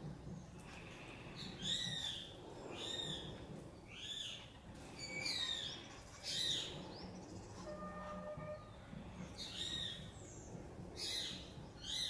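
Birds calling with short, arched chirps repeated about once a second, with a brief steady lower note about two-thirds of the way through, over a low background hum.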